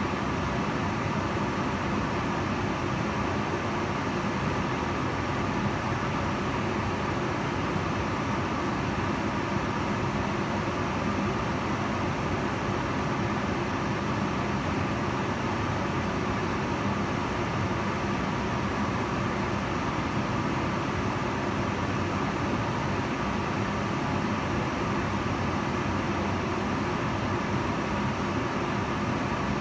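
Kitchen range hood running continuously: an even rush of fan air with a faint steady hum.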